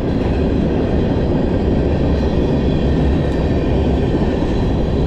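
A train passing by: the loud, steady sound of its wheels running on the rails.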